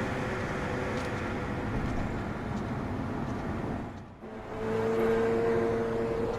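Ferrari 458 Spider's V8 running under way, with hiss from the tyres on a wet road. The sound drops briefly about four seconds in, then a steady engine note holds.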